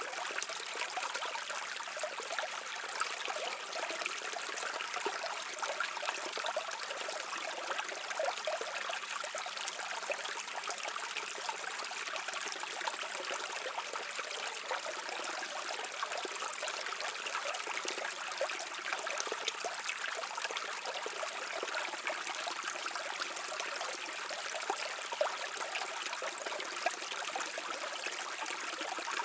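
A brook flowing steadily over stones, a continuous babble of trickling water with many small splashes.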